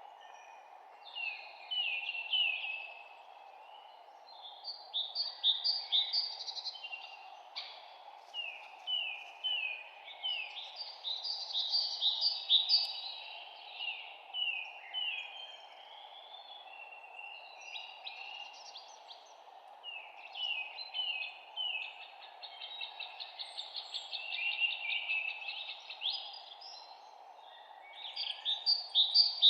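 Songbirds singing in bursts of a few seconds, each a run of quick downward-sweeping notes, over a steady low background noise.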